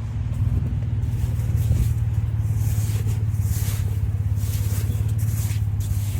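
A vehicle engine idling with a steady low hum, while snow is swept and scraped off the car by hand in repeated swishes.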